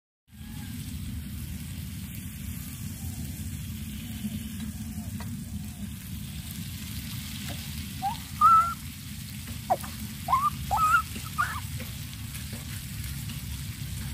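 Spiced potato curry sizzling steadily in a kadai over a mud stove. A few short, high chirping calls stand out in the second half.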